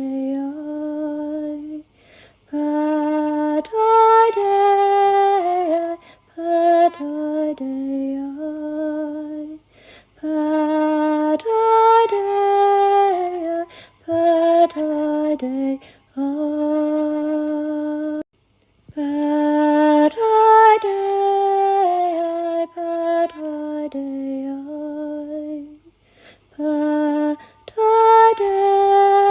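A woman singing slow, chant-like melodic phrases alone, without accompaniment, holding long notes and sliding between them, with brief pauses for breath between phrases.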